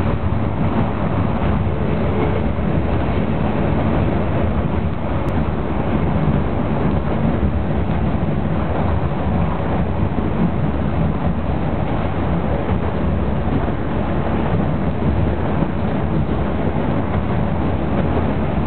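Meitetsu Mikawa Line diesel railcar running steadily along the track, a continuous drone of engine and wheel noise with a low hum.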